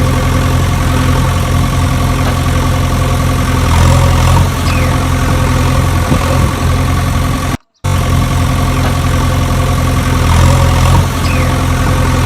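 Tractor engine idling steadily. It cuts out abruptly for a split second about three quarters of the way through, then carries on.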